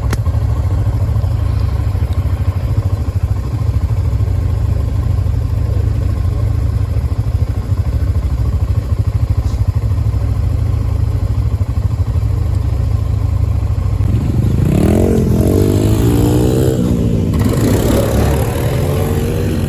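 Dirt bike engine with a steady low rumble; about 14 seconds in it is revved up and down several times, its pitch rising and falling.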